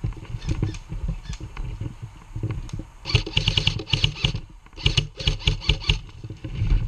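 Airsoft electric rifle firing two full-auto bursts of quick, evenly spaced shots, about halfway through and again a second later. Before them come dull, irregular knocks of movement.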